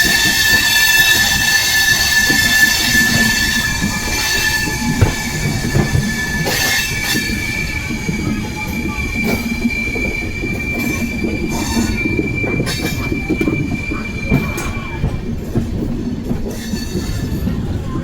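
Indian Railways passenger train running on the rails with a rumble and scattered knocks, and a high, steady wheel squeal that shifts to a slightly higher pitch about halfway through and fades out near the end.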